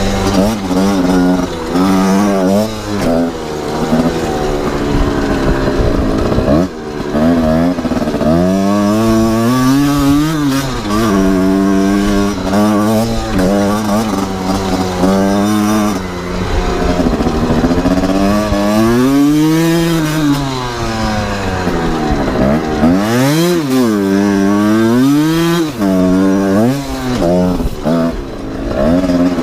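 Two-stroke dirt-bike engine (a Kawasaki KR unit) revving, its pitch climbing and falling again and again, some rises long and drawn out and others short and quick.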